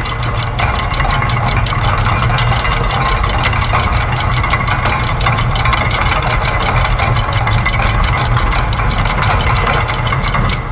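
Layered factory machinery sounds: a fast, even mechanical ticking like gears or a ratchet over a steady low machine hum and dense clatter. The sound swells slightly about half a second in and eases off near the end.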